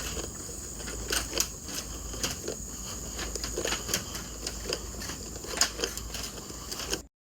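Irregular sharp clicks and light crackling, a few of them louder, over a steady high-pitched hum and a low rumble. The sound cuts off suddenly near the end.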